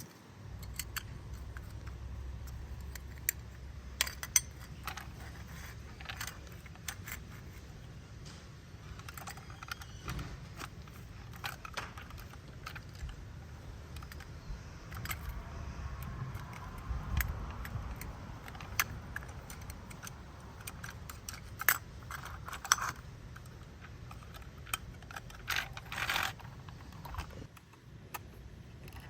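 A plastic toy garbage truck being handled and played with: scattered small plastic clicks, taps and clatter over a low rumble, with a longer scraping rattle near the end.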